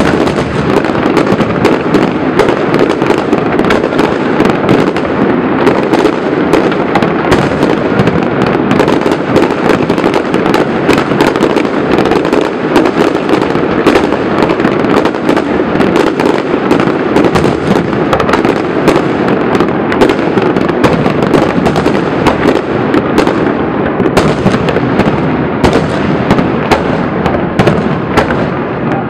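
Aerial fireworks display: shells bursting in a dense, continuous barrage, many sharp bangs every second overlapping into a steady din.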